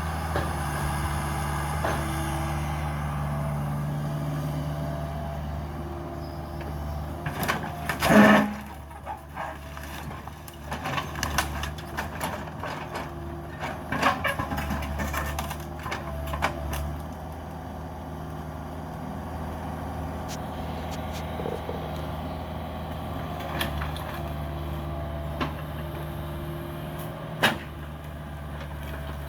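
Cat 305 mini excavator's diesel engine running steadily while it tears into a house, with cracks and crashes of breaking debris. The loudest crash comes about eight seconds in, with a scatter of smaller knocks after it and another sharp crack near the end.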